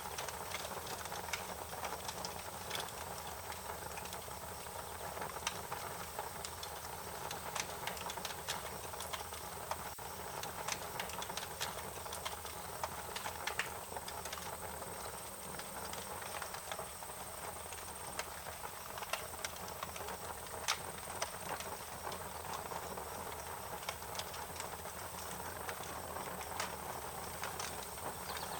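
Wood fire crackling: irregular sharp pops and snaps over a steady hiss, with a faint high-pitched steady tone underneath.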